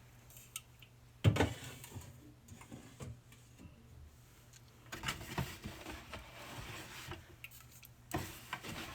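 Cans of pop being handled and set onto a fridge shelf: a sharp knock about a second in, then light clinks and rustling as more cans are pulled out and placed.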